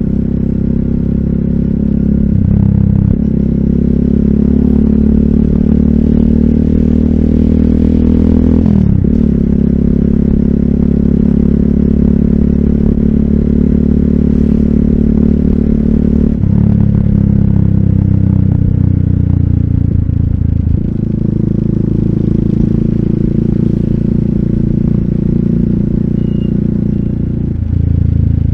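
RUSI Classic 250fi motorcycle's single-cylinder engine running through an Eli's Muffler full exhaust with a bullet slip-on pipe and dB killer, under way on the road. The engine note holds steady between a few sudden changes in engine speed, about every five to seven seconds, as the rider works the throttle and gears.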